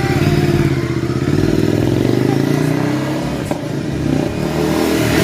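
Ducati Multistrada 950S's Testastretta L-twin engine running through a Mivv de-cat exhaust, its note climbing and then easing back off around the middle.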